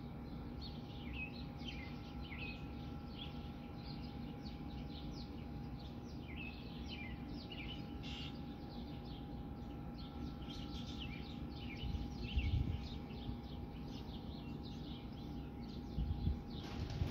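Small birds chirping over and over in short, quick calls, over a steady low rumble that grows louder twice in the second half.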